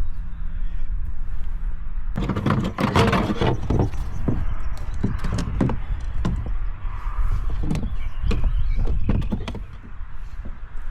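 A burst of clattering knocks about two seconds in, then scattered single knocks, over a steady low rumble.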